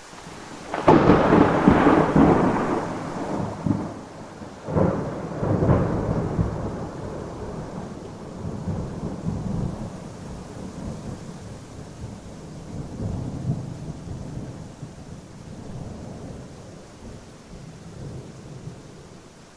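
Thunderstorm: a thunderclap breaks about a second in and rumbles on, two more sharp cracks follow around five and six seconds in, then the thunder rolls on in fading swells over steady rain.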